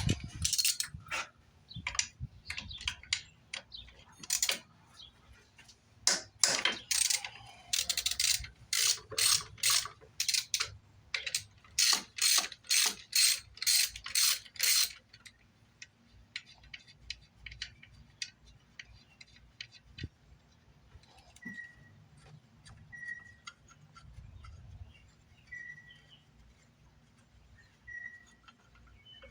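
Ratchet wrench clicking in short back-and-forth strokes, about two a second, loosening fasteners during disassembly of a car interior, then lighter scattered ticking of tools.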